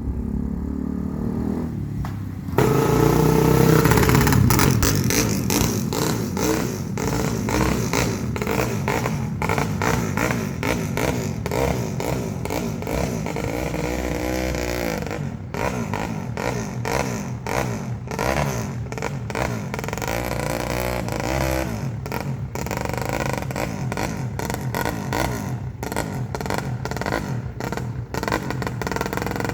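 Freshly rebuilt MD250 engine being started: it turns over, catches with a sudden jump in loudness about two and a half seconds in and revs up, then settles into a ragged, uneven run with the revs rising and falling around the middle.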